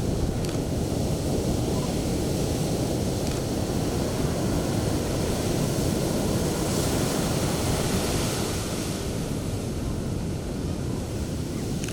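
Sea waves breaking and washing up a beach in steady surf, with a brighter hiss of churning foam about midway through.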